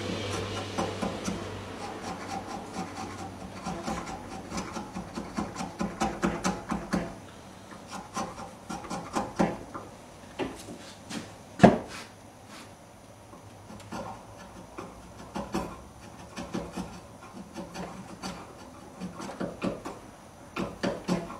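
Wood chisel paring and scraping a mesquite grip blank by hand, in runs of short scraping strokes, with one sharp knock a little past the middle.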